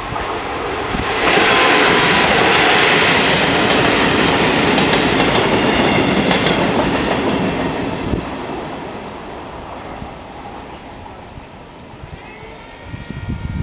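Trenitalia regional passenger train passing over a level crossing: the noise of its wheels on the rails comes up sharply about a second in, stays loud for several seconds, then fades as the train moves away.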